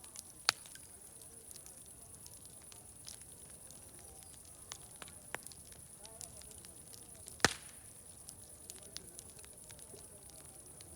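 Wood fire crackling with scattered sharp snaps, and two loud pops, one about half a second in and one past the middle. A steady high hiss runs underneath, with faint distant chatter.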